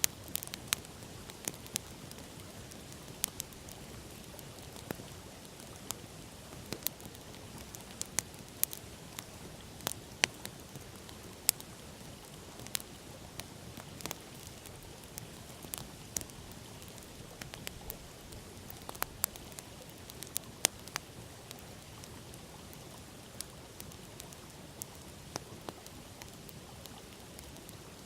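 Wood campfire crackling: irregular sharp pops and snaps, a few a second, with some louder cracks. Under them runs a steady rushing hiss from the river.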